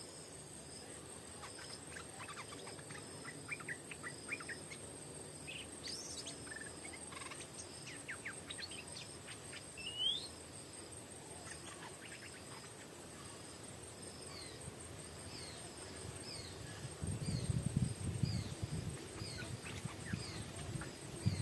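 Songbirds chirping and whistling: scattered short chirps and a rising whistle in the first half, then a series of short falling whistles. Insects keep up a steady high buzz throughout. Low thumps and rumbles come near the end.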